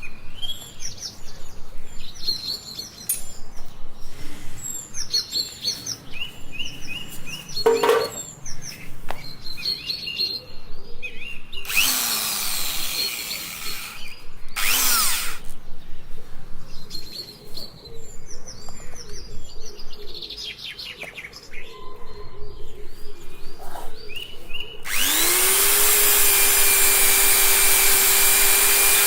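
Birds chirping repeatedly, with two short bursts of an electric power tool. Near the end the tool spins up and runs steadily.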